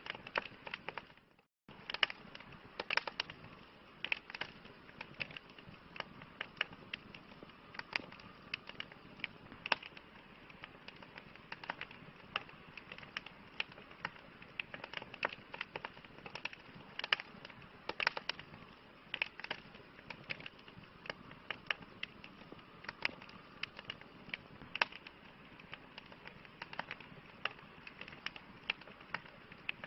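Campfire crackling: irregular sharp pops and snaps over a steady soft hiss. The sound cuts out briefly about a second and a half in.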